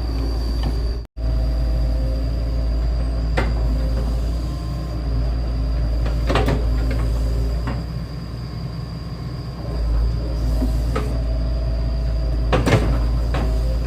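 Excavator's diesel engine running steadily under load, with a few sharp metal clanks from the bucket and arm.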